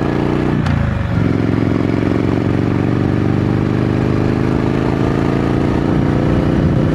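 Triumph Scrambler 900's 900cc parallel-twin engine running under way through its stock exhaust, the revs climbing gently. About a second in there is a sharp click and a brief dip in revs, then the engine pulls steadily on.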